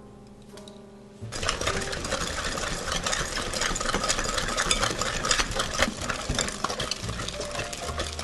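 Batter being stirred and mixed in a glass mixing bowl, a busy scraping and clinking that starts suddenly about a second in, after a moment of soft music.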